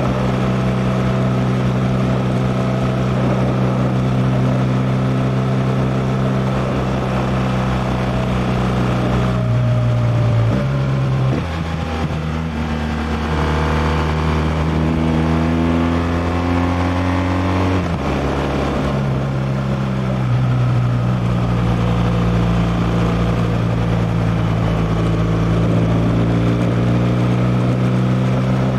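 2016 BMW R1200R LC's boxer-twin engine heard while riding: steady cruising, then the revs drop about a third of the way in, climb for several seconds, change suddenly at a gear change, and settle back to steady running.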